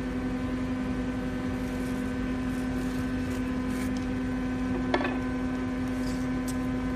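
A machine's electric motor running at a steady speed, giving an even hum with one strong steady tone, and a short sharp click about five seconds in.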